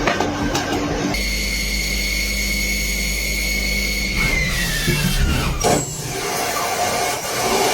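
Factory machinery running with a steady high whine that slides down in pitch about four seconds in, with an abrupt change in the machine noise near the start and again near the end.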